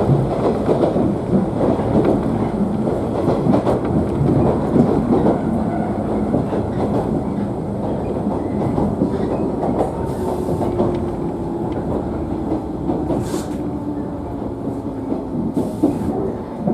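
Cabin sound of a JNR 113 series electric multiple unit running on jointed track: wheel rumble and clickety-clack that slowly eases as the train slows. Faint steady brake tones come in during the second half.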